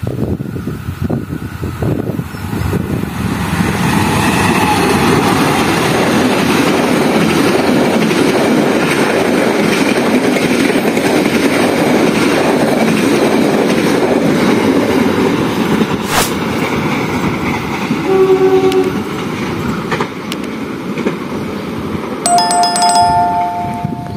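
Passenger train passing close by at speed: a steady rumble and rattle of wheels on the rails. Short locomotive horn blasts sound in the last few seconds.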